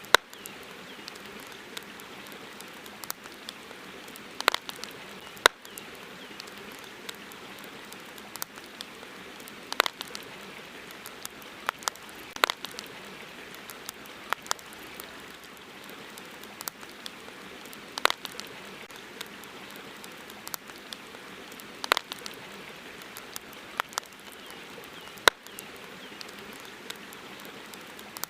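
Wood campfire crackling: irregular sharp pops and snaps, a few much louder than the rest, over a steady background hiss.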